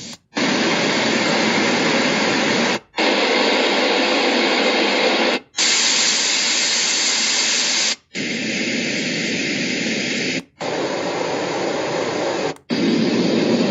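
Portable white noise machine's speaker playing steady white noise, broken by a short silence about every two and a half seconds as it steps through several noise sounds, each a slightly different shade of hiss.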